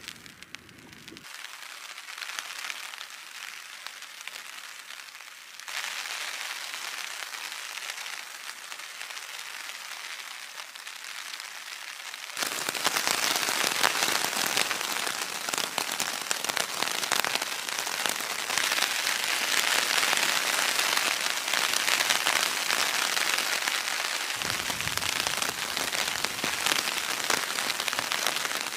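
Rain pattering on a tarp shelter, heard from underneath: a dense, even patter of drops on the fabric that gets louder in steps, about six seconds in and again about twelve seconds in.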